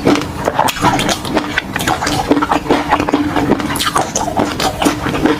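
Close-miked eating sounds of food in peanut sauce: rapid, irregular wet chewing and lip smacks, many short sticky clicks.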